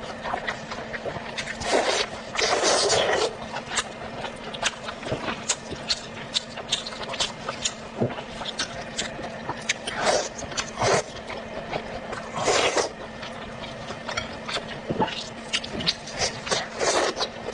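A person eating close to the microphone: quick wet mouth clicks and smacks of chewing, broken by a few longer noisy bursts of slurping or crunching.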